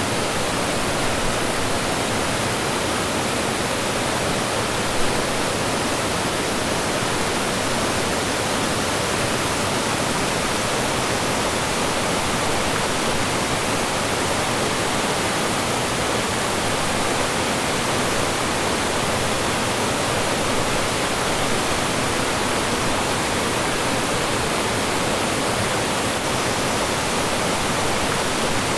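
Mountain stream rushing over rocks and small falls, a steady, even roar of running water.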